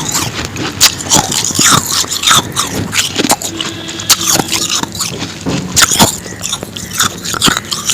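Close-miked biting and chewing of powdery ice: a dense, irregular run of crisp crunches and crackles.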